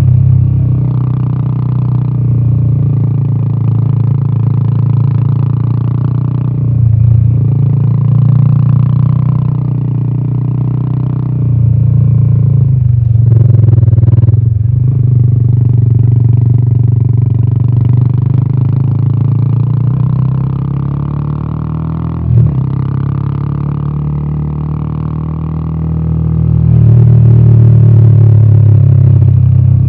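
Royal Enfield Himalayan 450's 452cc single-cylinder Sherpa engine and exhaust under way on a mountain road, the deep exhaust note swelling and easing with the throttle. The sound breaks briefly twice around halfway, and there is a short sharp knock about two-thirds through.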